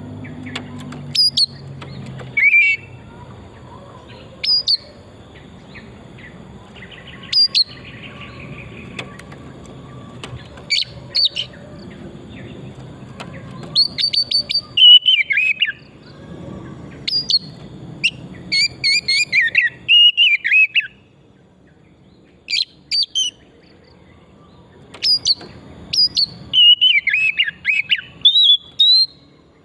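Oriental magpie-robin (kacer) singing: short, sharp whistled notes, many sweeping upward, mixed with quicker warbling phrases that slide down in pitch, delivered in bursts with pauses between them.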